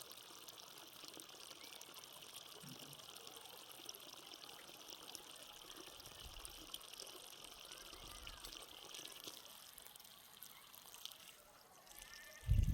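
Faint steady trickle of irrigation water flowing. At the very end a sudden loud low rumble starts.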